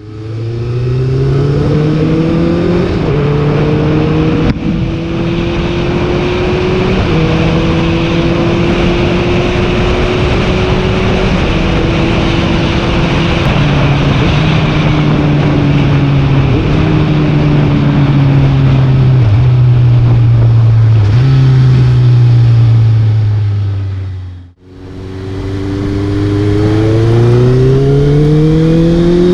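Honda CBR650F inline-four with an Arrow full-system exhaust, riding on the road, heard through a GoPro's foam-covered mic with some wind rush. The engine note steps between gears and slowly falls through the middle, with two short throttle blips near the end of that stretch as it downshifts, typical of rev-matching. The sound dips out briefly about 24 seconds in, then the pitch climbs steadily as it accelerates.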